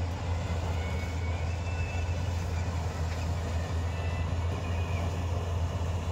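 Combine harvester's diesel engine and machinery running steadily with a constant low drone, harvesting maize.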